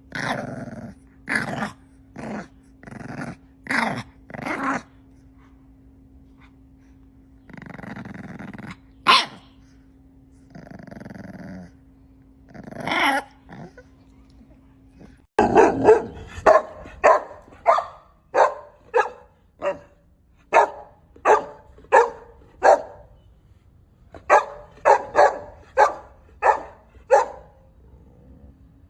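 Puppy barking, with a few longer growls among the barks in the first half. About halfway through, a different recording begins: a steady run of short, sharp barks at about one and a half a second, broken by a short pause near the end.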